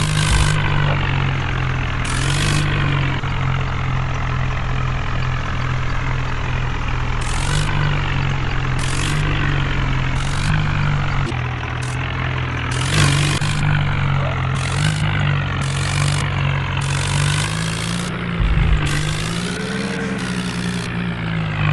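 Tractor diesel engine running steadily, its pitch rising briefly as it revs up about 18 seconds in. Repeated short bursts of hiss sound over it throughout.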